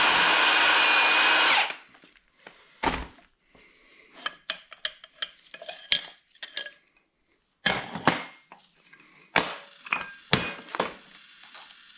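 A power tool runs in one steady burst for about a second and a half, then stops. After that come scattered metallic clinks and knocks as a bearing race is worked off with a puller.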